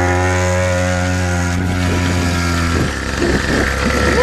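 Motorbike engine running at a steady speed, loud and close. Near the end the steady engine note breaks up and wavers for about a second and a half.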